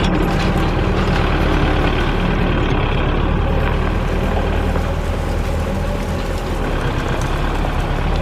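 Tractor's diesel engine running steadily under load, pulling a loaded trolley.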